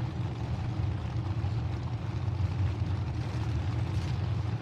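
Many demolition derby truck engines running together in a steady low rumble.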